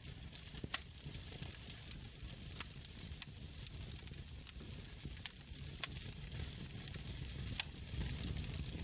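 Wood fire crackling in a fireplace: a steady hissing over a low rumble, with half a dozen sharp pops from the burning logs scattered through.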